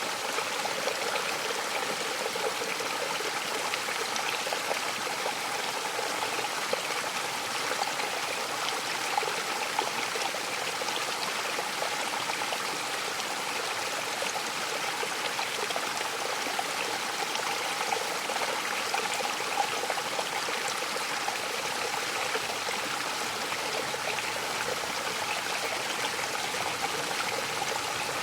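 Mountain waterfall: a steady rush of falling water with no breaks or changes.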